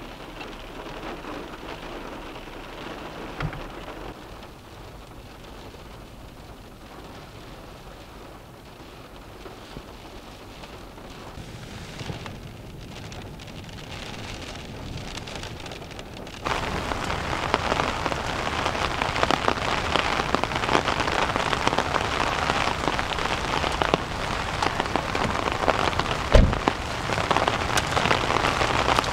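Heavy rain. For the first half it sounds muffled and steady, as rain drumming on a car heard from inside. About sixteen seconds in it jumps to a much louder, fuller downpour in the open, with one sharp thump near the end.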